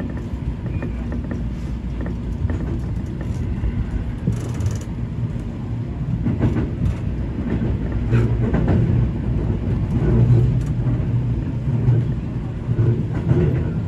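Seibu 20000 series electric train running along the track, heard from inside the front car: a steady low rumble of wheels on rail, with scattered clicks over rail joints and points in the second half and a brief high hiss about four seconds in.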